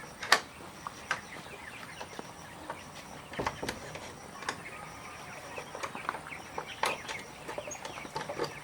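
Chickens clucking on and off, with scattered sharp clicks and knocks, the loudest just after the start.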